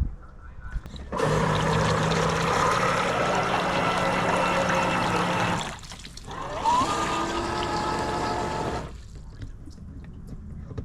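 Electric RC truck run in water in two bursts of throttle, about four seconds and then about two: its motor whines while the spinning wheels churn and splash the water, and the pitch rises as the second burst starts.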